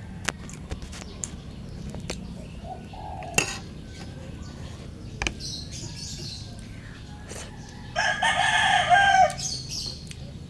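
A rooster crows once, loudly, about eight seconds in, with smaller birds chirping and a few sharp clicks around it.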